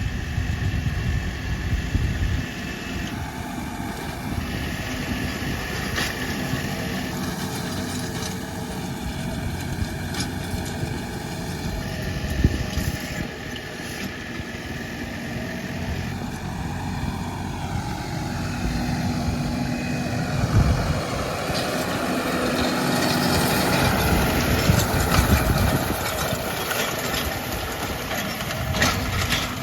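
New Holland T5.90 tractor's four-cylinder diesel engine running steadily, growing louder and rougher for a few seconds about two-thirds of the way through.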